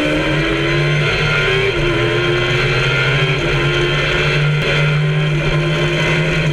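Kawasaki ZX-10R inline-four motorcycle engine in an MK Indy open-cockpit track car, running under throttle on track at a near-steady pitch that rises slightly about two seconds in, with rushing wind and road noise.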